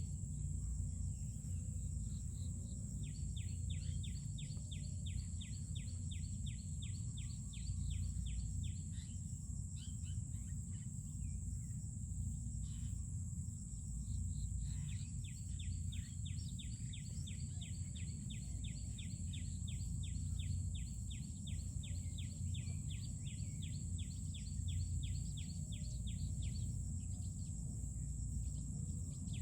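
Outdoor ambience: a steady low rumble and a constant high-pitched hiss, with long runs of rapid, evenly repeated chirping from an insect or bird that stop for a few seconds in the middle and again near the end.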